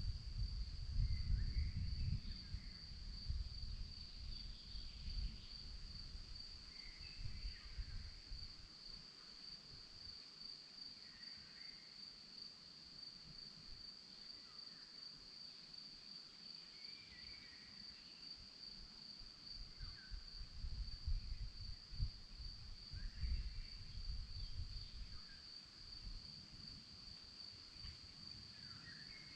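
Crickets trilling in one steady, unbroken high tone, with short bird calls scattered every few seconds behind it. Bursts of low rumble come and go near the start and again about twenty seconds in.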